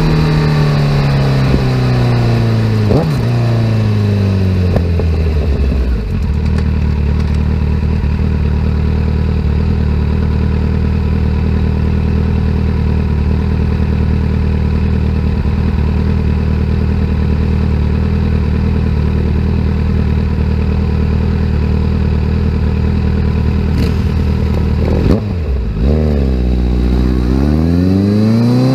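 2017 Kawasaki Z900's inline-four through a full aftermarket exhaust. The engine note falls as the bike slows, with three short blips of throttle, then it idles steadily for about twenty seconds. Near the end it revs and pulls away, the pitch climbing.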